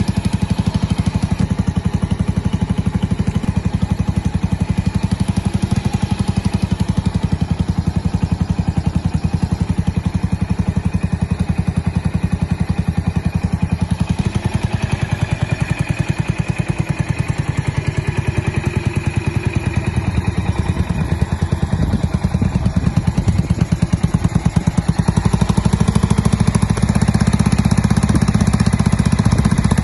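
Custom Suzuki Skywave 250 (CJ44A) scooter's single-cylinder four-stroke engine idling through its custom muffler: a steady, rapid pulsing exhaust note that grows a little louder near the end.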